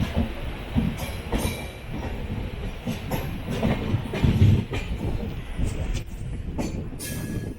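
LHB passenger train running on the track: a steady rumble with wheels clattering and knocking irregularly, heaviest about four and a half seconds in.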